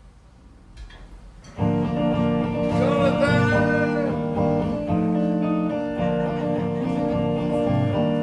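Acoustic guitar starting a song's intro about a second and a half in, after a short quiet stretch, and then playing on with sustained chords.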